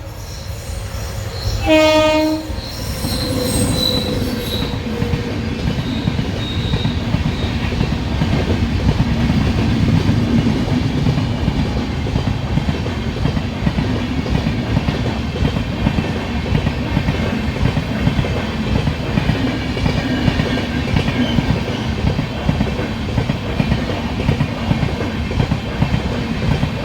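Train horn sounding one short blast about two seconds in, followed by the continuous rumble and clatter of a train's wheels running over the rails.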